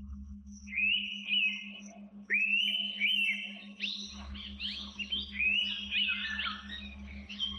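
Indian pitta whistling: loud, clear upslurred whistled notes, first singly, then from about halfway on many overlapping as several calls answer one another. A faint steady low hum runs beneath.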